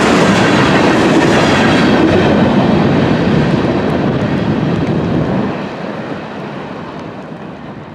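Florida East Coast Railway freight cars rolling past at close range, steel wheels running on the rails. The tail of the train passes a few seconds in, and the rumble fades steadily as it moves away.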